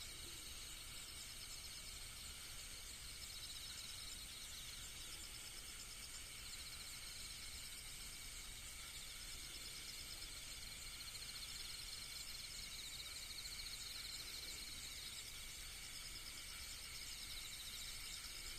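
Outdoor insect chorus: several high, rapidly pulsed trills overlapping and shifting over a steady background hiss.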